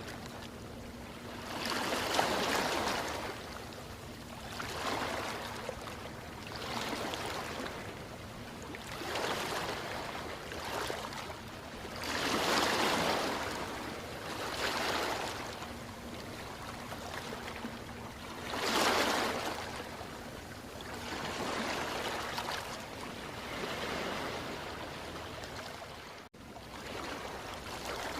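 Ocean waves washing in, each surge of surf swelling and fading every few seconds, with a brief break in the sound a little before the end.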